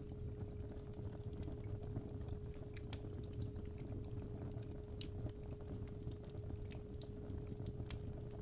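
Fireplace fire crackling with irregular small pops over a low rumble, mixed with a steady 417 Hz pure tone.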